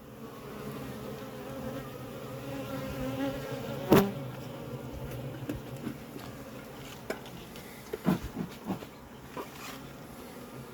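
Honeybee colony buzzing in an open hive during an inspection, a steady hum. About four seconds in there is one sharp knock, and a few lighter knocks come near the end.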